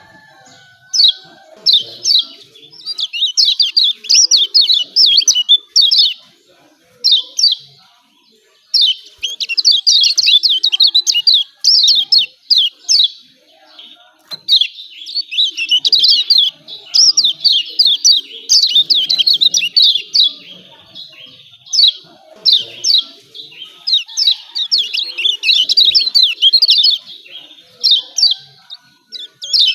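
Kecial kuning (Lombok white-eye) giving its excited 'ciak ciak' chirping call: rapid high chirps strung into bursts of one to three seconds, with short pauses between them.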